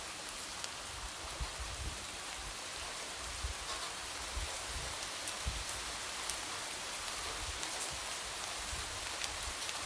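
Light rain falling steadily, with scattered individual drops tapping against a window.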